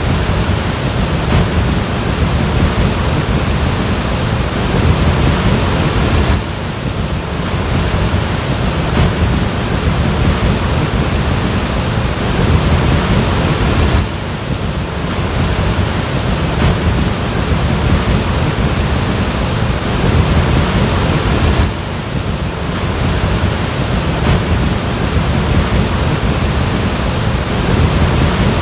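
Loud, steady rushing of floodwater, heavy in the low end, with a sudden change in the noise about every seven or eight seconds as one clip cuts to the next.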